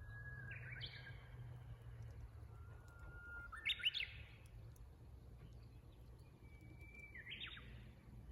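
Japanese bush warbler (uguisu) singing its 'hoo-hokekyo' song three times. Each song is a long held whistle that breaks into a quick flourish of notes, the loudest one in the middle.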